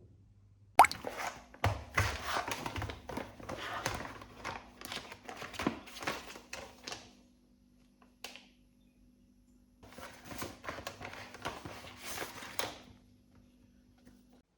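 Household objects being handled close by: a busy run of knocks, clatters and rustles with a sharp knock at the start, a pause with one tap, then a second run of handling, over a faint steady hum.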